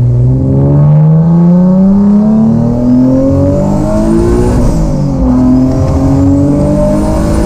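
Single-turbo Nissan 370Z's V6 under hard acceleration: the engine note climbs steadily, drops sharply at an upshift about two-thirds of the way through, then climbs again, with a faint high whistle rising along with it.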